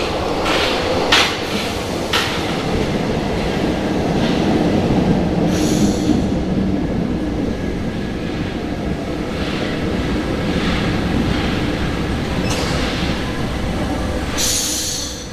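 A Paris Métro MF67 train running on line 3: a steady rumble of steel wheels on rail with squealing wheels, and sharp clicks over the rail joints in the first couple of seconds. Short hissing bursts come about six seconds in and again near the end, and then the noise falls away.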